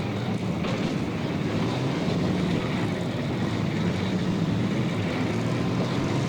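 Several demolition derby cars' engines running together, a steady, dense engine noise with no distinct crash or impact standing out.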